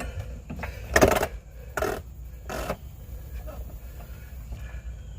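Car jack being worked to raise a car: three short scraping, clattering strokes a little under a second apart, the first the loudest, over a low steady rumble.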